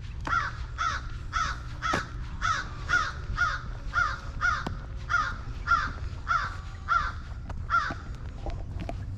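A bird calling in a quick, even series of about fifteen short calls, roughly two a second, stopping shortly before the end.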